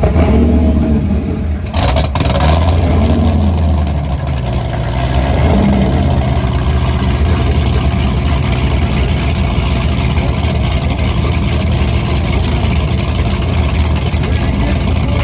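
Car engine revved hard and held at high revs, loud and continuous; it comes in suddenly, its pitch rises and falls for the first couple of seconds, then it settles into a steady, harsher run.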